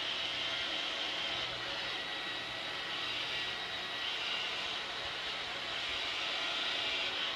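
Steady whirring rush of an electric motor moving air, with a low hum underneath.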